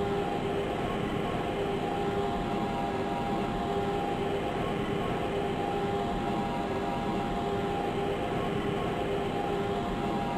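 Lisbon Metro ML90 train running at steady speed: a continuous rail rumble with a steady motor whine of several held tones that does not rise or fall.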